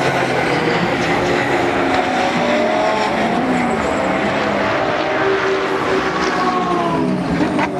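Engines of several GT3 race cars running together, their overlapping notes rising and falling in pitch as they rev.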